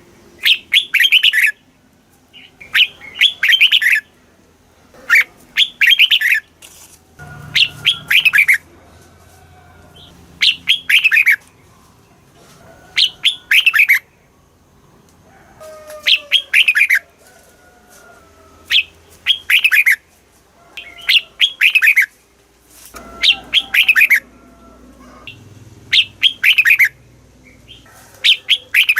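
Red-whiskered bulbul singing: short, loud, whistled phrases of falling notes, repeated about every two seconds. Fainter bird calls sound in the gaps between phrases.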